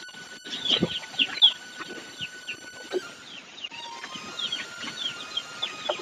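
Birds chirping in short, high, downward-sliding notes, several a second, with a few soft knocks underneath.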